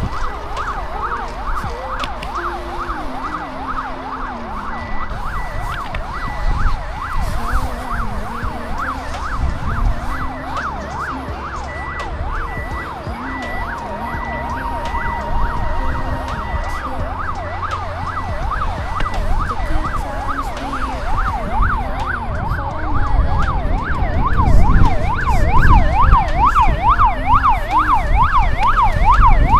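A fast siren-like warble, its pitch rising and falling about four times a second, over low shifting notes; it grows louder near the end.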